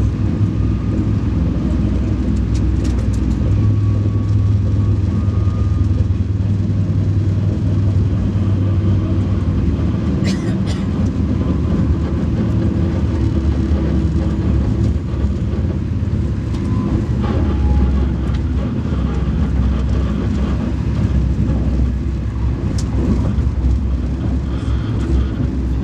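Alfa Pendular electric tilting train running along the line with a steady, heavy low rumble from wheels and running gear, and a few brief clicks.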